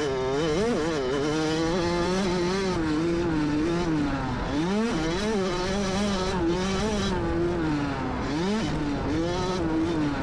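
Dirt bike engine running close by on a motocross track, its pitch rising and falling with the throttle. Twice, about four and eight and a half seconds in, the revs drop and then climb again.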